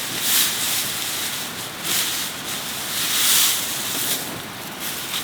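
Water running and splashing in a steady hiss that swells several times.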